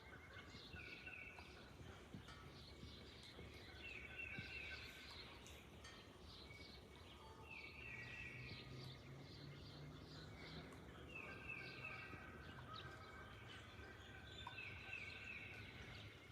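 Faint bird calls: one bird repeats a short buzzy trill about every three and a half seconds, among other scattered chirps.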